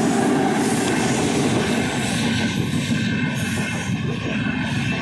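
Indian Railways express train passing close by: a WAP-7 electric locomotive followed by passenger coaches, with a loud, steady rumble of wheels running on the rails.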